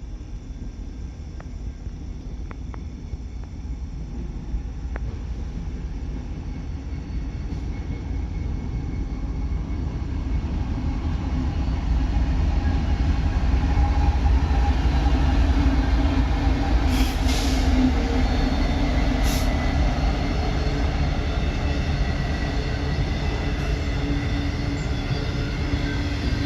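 Train approaching and passing: a rumble with a steady engine hum grows louder over the first half and then holds as the cars roll by. Two brief sharp high squeaks come about two-thirds through.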